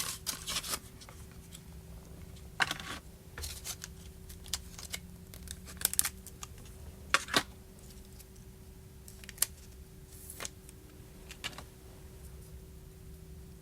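Scattered small clicks and taps from working on an iPhone's tiny screws with a precision screwdriver on a work mat: about a dozen sharp ticks at uneven intervals, over a faint steady hum.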